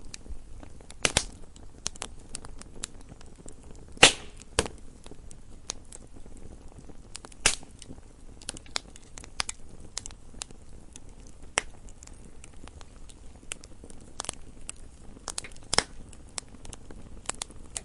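Campfire crackling: a low steady hiss with irregular sharp pops and snaps, a few of them loud, such as about four seconds in.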